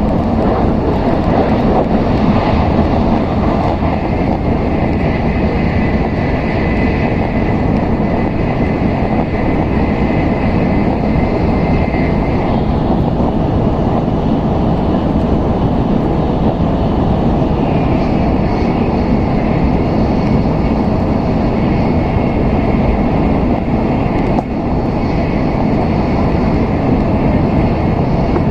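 Steady running noise of an N700S Shinkansen at speed, heard inside the passenger cabin, with a faint high whine that fades out partway through and comes back.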